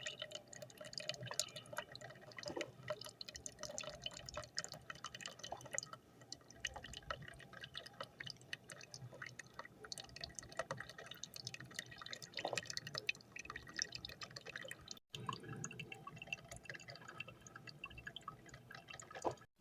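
Drip coffee maker brewing, with hot coffee dripping into the carafe as a faint, continuous run of small drips and pops.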